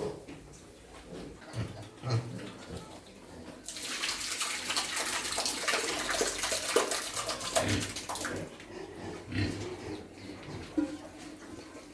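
Water pouring or splashing for about four seconds, starting about four seconds in, with pigs grunting before and after it.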